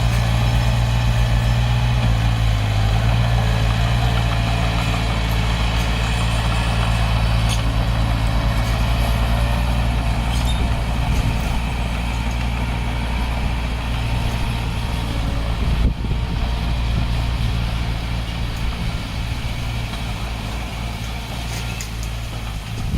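Diesel engine of heavy earthmoving machinery running steadily at one low note, with a single sharp knock about two-thirds of the way through. The engine grows a little quieter near the end.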